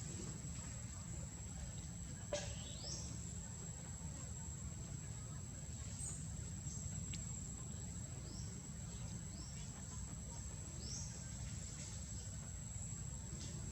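Outdoor ambience: a steady high-pitched insect drone over a low rumble, with a sharp click a couple of seconds in and a few short high chirps scattered through.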